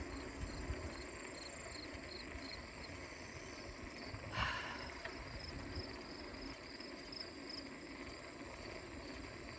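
Insects chirping, a fast regular pulse over a steady high drone, with a low rumble of wind and riding noise on the phone's microphone underneath. A short rustle about four and a half seconds in.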